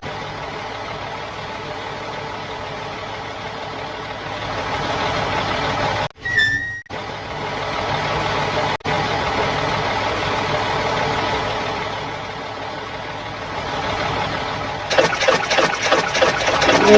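Engine sound of a truck running steadily, with a brief break about six seconds in and turning louder and choppier near the end.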